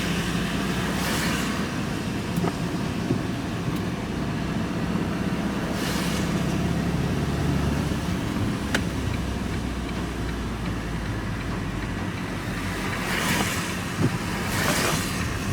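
A van driving along, its engine and tyre noise a steady rumble, with a few brief whooshes about a second in, around six seconds and near the end.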